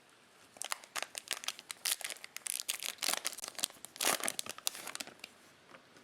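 Cellophane trading-card pack wrapper crinkling and tearing in a rapid run of sharp crackles, starting about half a second in and stopping about five seconds in.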